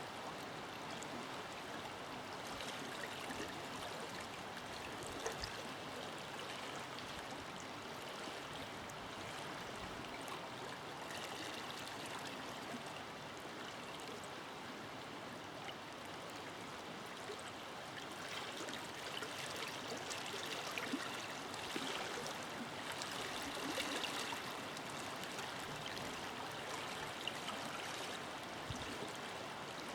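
Forest river flowing steadily, a continuous rush of water with small splashes and trickles over it, a little livelier in the second half.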